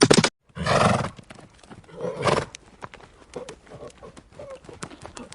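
A horse calls out loudly twice, about half a second in and again about two seconds in, with hooves clopping irregularly in between.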